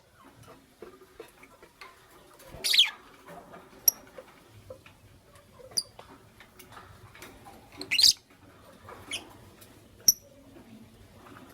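Lovebirds chirping: two loud, short shrill calls about three and eight seconds in, with a few brief high peeps between them and faint clicking in the background.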